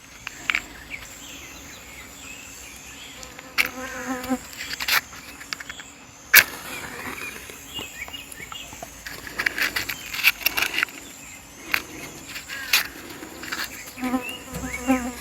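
A fly buzzing close by, passing twice, over a steady high chirring of insects. Several sharp clicks and snaps are scattered through, one louder snap about six seconds in.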